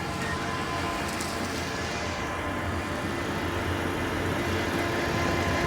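A ready-mix concrete mixer truck running steadily, with an even rushing noise over the low drone of the engine.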